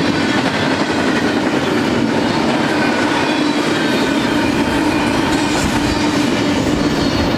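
Double-stack intermodal train's loaded well cars rolling past, a steady rumble of steel wheels on rail.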